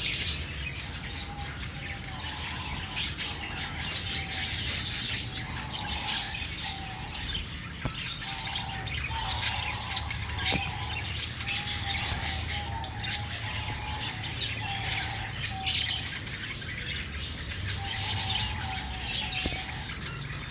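A flock of caged parrots chirping and chattering without pause: dense high chirps, with a lower call repeated in short phrases. A steady low hum runs underneath.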